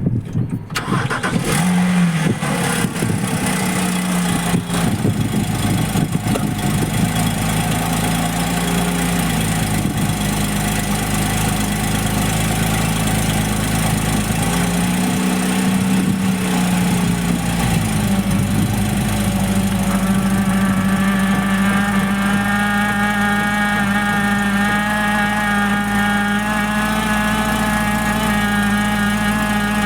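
Porsche Cayman S 987.2 flat-six engine starting and then idling, with a steady high-pitched, mosquito-like whine of several tones setting in about twenty seconds in and holding. The owner traced this whine to power steering fluid leaking from the low-pressure power steering hose; it grows louder when the steering wheel is turned.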